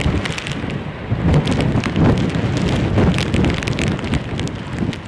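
Strong gusty storm wind buffeting the microphone: a heavy rumble that swells and drops every second or so, with scattered crackles.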